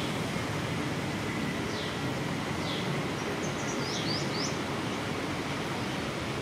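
Steady outdoor background noise with a few short, high bird chirps that fall in pitch, several in quick succession a little past the middle.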